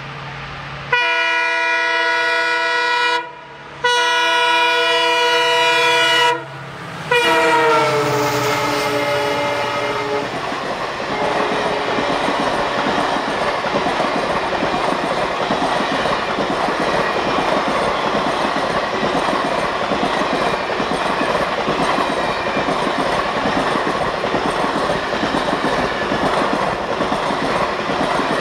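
Diesel locomotive's horn sounds three long blasts as the train approaches, the last one dropping in pitch as the locomotive passes. Then the express's passenger coaches rush past at speed with a steady rumble and the clickety-clack of wheels over the rail joints.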